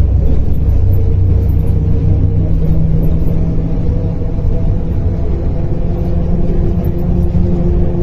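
Simulated diesel engine of a MAZ-105 articulated city bus running with a heavy low rumble, its engine note changing a few seconds in as the bus drives.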